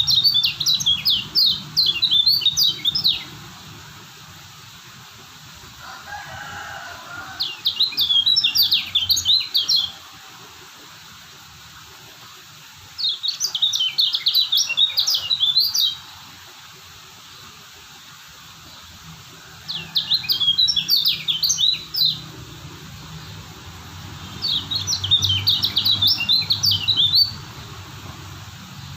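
Kecial kuning (a yellow white-eye) singing in five bursts of fast, high chattering notes, each about three seconds long, with pauses of a few seconds between them.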